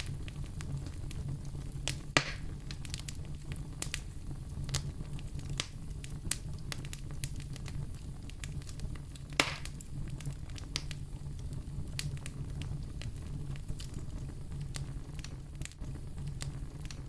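Wood fire crackling in a fireplace: a dense scatter of small snaps over a steady low rumble, with two louder pops, one about two seconds in and one about nine seconds in.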